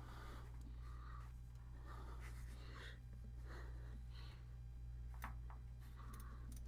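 Quiet room tone with a steady low hum, faint soft rustling handling noises and a few small clicks.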